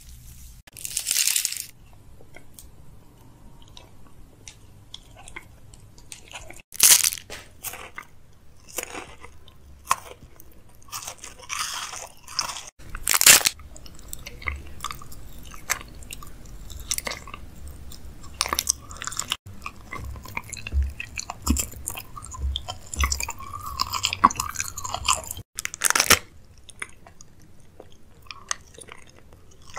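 Close-miked crunching and chewing of hard, crunchy food: many sharp crisp bites scattered irregularly, a few of them much louder than the rest.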